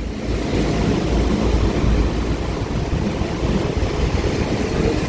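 Transport for Wales Class 197 diesel multiple unit pulling out of the platform, a steady rumble heavy in the low end.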